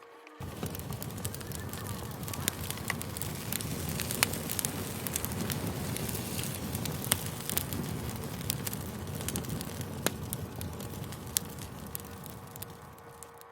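Campfire burning, with a steady low rush of flames and frequent sharp, irregular crackles and pops from the burning wood.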